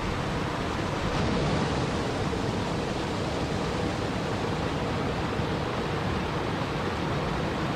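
Steady rushing water, an even hiss and rumble with no breaks or distinct events.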